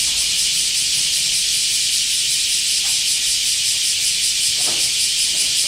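Cicada singing: a loud, steady, shrill buzz.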